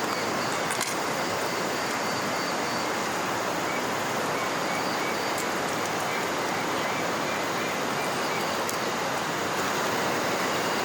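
Steady rushing of flowing river water, with faint short high chirps repeating over it.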